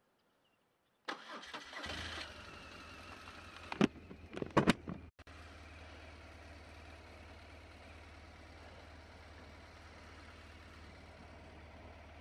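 BMW GS motorcycle engine started on the electric starter about a second in, catching almost at once and settling into a steady idle. A few sharp clicks sound around four seconds in.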